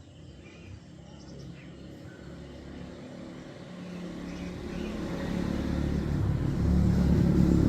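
Low engine rumble of a motor vehicle, growing steadily louder from about halfway through until it is loudest near the end.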